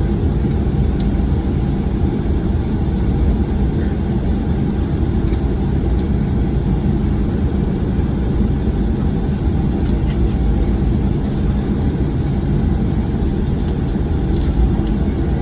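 Steady low rumble inside the cabin of a Boeing 737-900ER, its CFM56-7B engines running at idle on the ground after landing.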